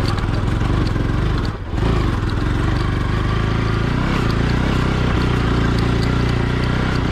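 Motorcycle engine running steadily while riding, with a brief drop in level about one and a half seconds in.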